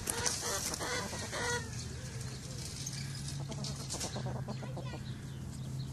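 Hens clucking softly while dust bathing. A scratchy rustle of dirt being worked sounds in the first second and a half, then dies down.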